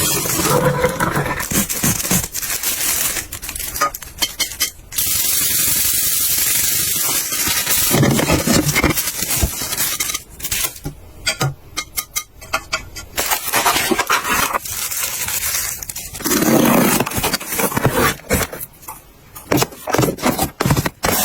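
Close-up handling sounds: repeated clicks, taps and scrapes as small objects are picked up, moved and set down, with short stretches of rustling in between.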